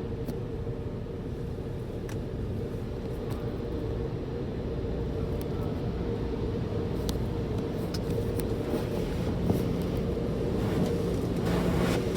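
Car wash tunnel machinery running, heard from inside a car: a steady low rumble with a held hum and a faint tick now and then. A rushing noise builds near the end.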